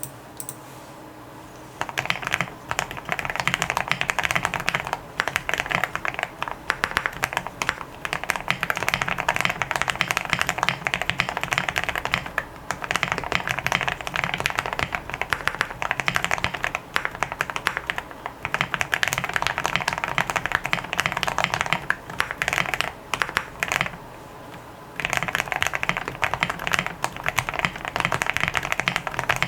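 Steady typing on a foam- and tape-modded mechanical keyboard with lubed and filmed Gateron Black Ink linear switches and Drop MT3 keycaps. The typing starts about two seconds in and pauses briefly a few times.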